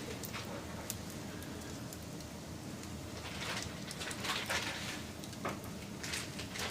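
Wood fire crackling and popping in irregular snaps over a steady low rush of flame, with a busier run of pops about halfway through and again near the end.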